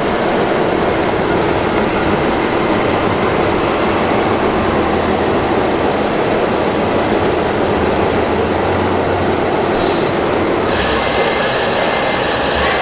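Steady mechanical running of scale radio-controlled construction machines, the whir of their electric motors and gearboxes. It changes a little near the end, when a few higher steady tones join in.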